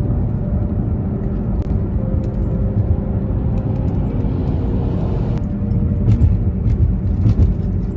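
Steady low road and engine rumble of a car being driven, heard from inside the cabin. Partway through, the noise brightens for a second or so and then drops back.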